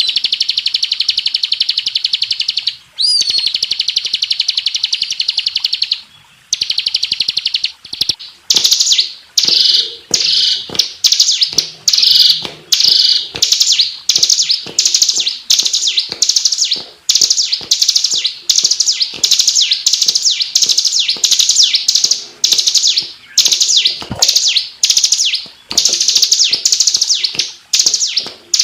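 Ciblek (prinia) singing a loud, rapid, high-pitched trilling song. For the first several seconds it runs in long nearly unbroken trills; from about eight seconds in it breaks into short, fast repeated phrases about one a second.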